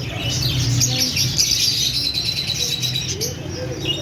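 Baby birds chirping: a dense run of rapid, high chirps, with one steadier held note lasting about a second around two seconds in.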